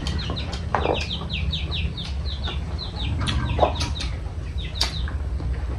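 Birds chirping: a steady run of short, high peeps that fall in pitch, several a second, with a few sharp clicks over a low hum.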